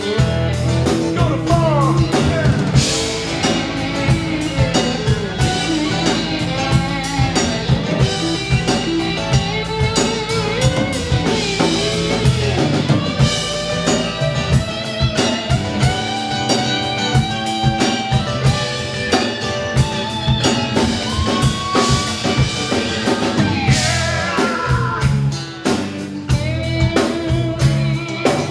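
Live band playing amplified rock/blues music: guitar lines with bends and glides over a drum kit.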